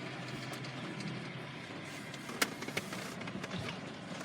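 Steady low hum of a car running in a slow queue, with one sharp click about two and a half seconds in.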